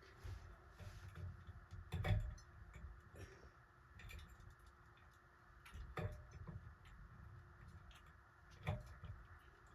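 Scattered light clicks and knocks from hand work on a ceiling fan's pull chain switch and wiring, about four in several seconds. The loudest comes about two seconds in.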